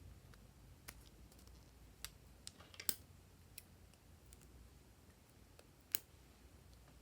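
Glossy slime being handled, giving scattered sharp clicks and pops, the loudest about three seconds in and again near six seconds.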